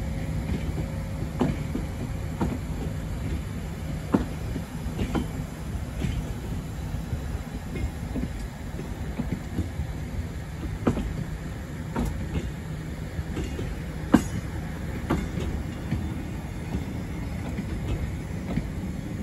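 Railway dining coaches rolling slowly past on a heritage line, a steady low rumble from the wheels and running gear with irregular clicks and knocks as the wheels pass over the rail joints.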